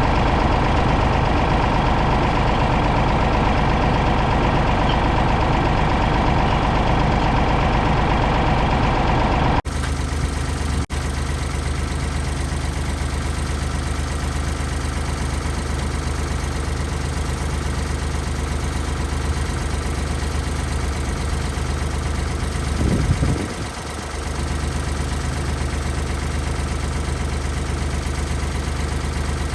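Ford 555 backhoe loader's engine running, working hard for about ten seconds. The sound then cuts abruptly to a quieter, steady idle, with a short swell in engine sound past the two-thirds point.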